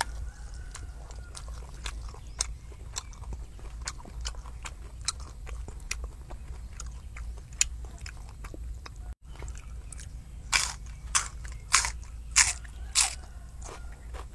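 Close-miked eating of crunchy food: small crackling clicks as it is handled and chewed, then five loud crunches, about two a second, as it is bitten and chewed.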